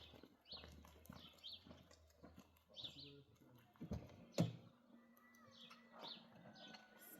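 A small bird chirping in short, high notes repeated about once a second, with a single sharp knock about four and a half seconds in.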